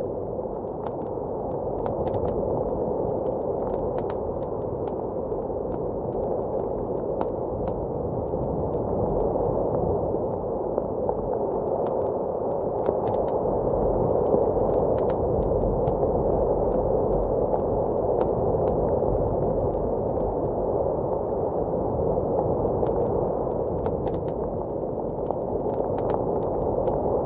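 Wood fire crackling in a fireplace, with scattered small pops, over the steady, muffled rush of blizzard wind.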